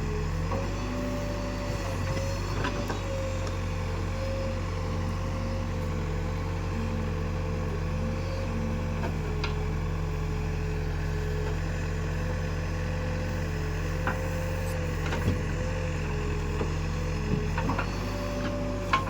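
Heavy diesel machinery running steadily: a constant low engine hum with a slightly wavering whine above it, and a few faint knocks.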